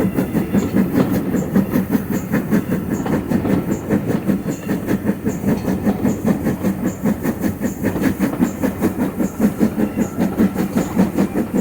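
Great Western Railway tank steam locomotive working hard up a steep gradient, its exhaust beating in a fast, even rhythm. Heard from a carriage behind it, together with the clatter of the wheels on the rails.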